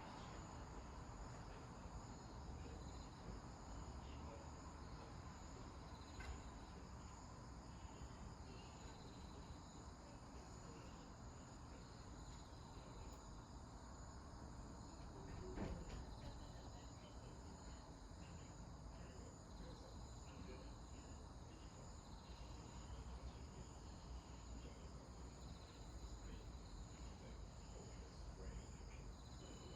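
Faint, steady chirring of crickets, with a single soft low bump about halfway through.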